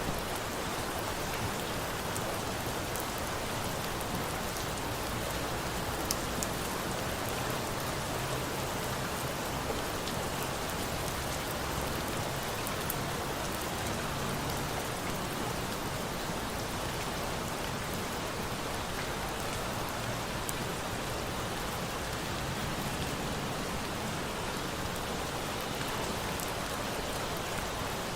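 Steady rain falling, an even hiss of drops, with a few sharp little crackles scattered through it from a wood fire burning.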